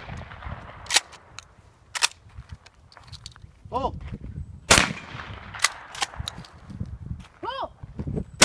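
Shotgun shots fired at thrown clay targets: several sharp reports, some about a second apart. A shouted "pull" calls for the next target about four seconds in and again near the end.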